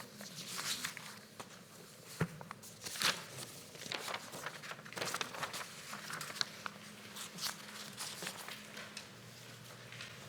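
Scattered rustling, shuffling and small knocks from people moving in a quiet room, the sharpest knocks about two and three seconds in.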